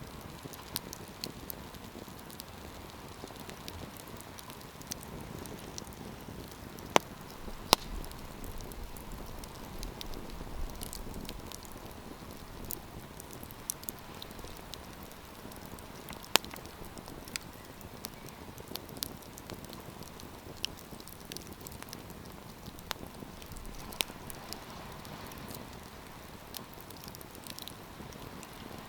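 Wood campfire burning, with a steady hiss and frequent irregular crackles and pops, a few sharp loud snaps standing out.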